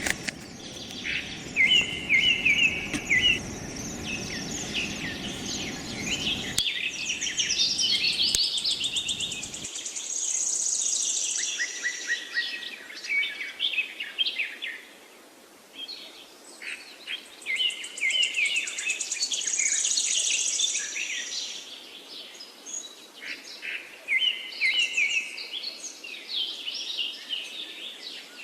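Songbirds singing and chirping, with repeated quick trilled phrases. A low background noise underneath stops abruptly about six and a half seconds in.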